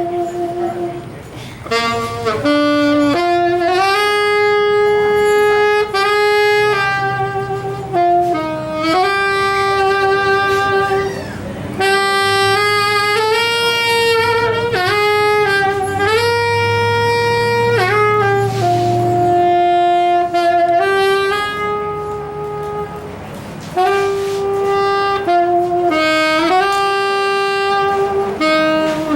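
A saxophone playing a melody of long held notes that step up and down in pitch.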